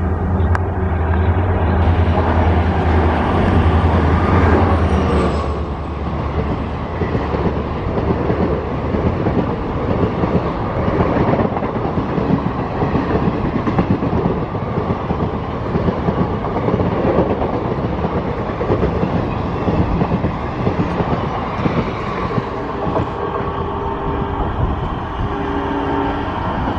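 An express train running through at speed. For the first five seconds or so the locomotive hums steadily as it comes up and passes. After that a long rake of passenger coaches rolls by, its wheels clattering rhythmically on the track.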